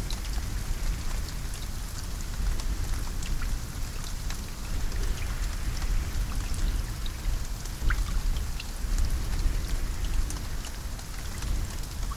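Steady rainfall: an even hiss of rain with many individual drops striking sharply, over a constant deep rumble.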